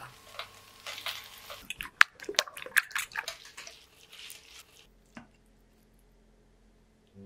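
Rasping strokes of raw sausage on a stainless steel box grater, followed by sharp crackling pops of grated potato frying in oil in a pan as it is stirred with a wooden spatula.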